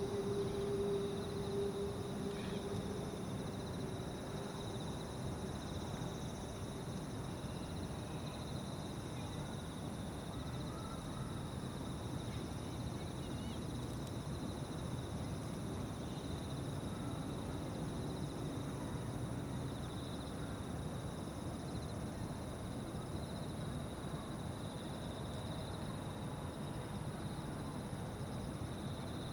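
Evening insect chorus: a steady, high-pitched chirring that never lets up, over a low distant rumble. A low hum fades away during the first few seconds.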